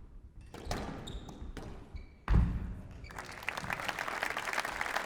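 Squash ball knocks and court-shoe squeaks during a rally, with one loud thud a little over two seconds in. From about three seconds in, the crowd applauds the end of the point.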